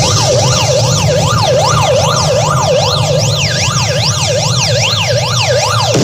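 Wailing siren effect played at full volume through a large sound system. It sweeps up and down a little over twice a second over a steady low bass hum, then cuts off suddenly at the end.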